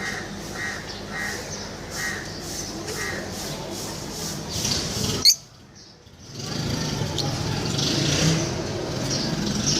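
Lovebirds calling with short chirps repeated about every half second. About five seconds in there is a sharp click and a brief drop in sound. Then comes a louder, noisier stretch with more high chirps over it.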